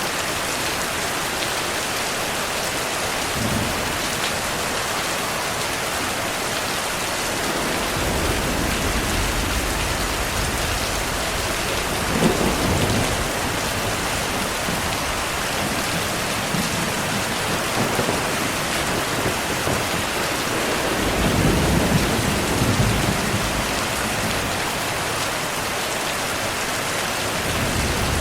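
Heavy rain falling steadily, with rolling thunder rumbling in from about a third of the way through and swelling twice, the second time the longest.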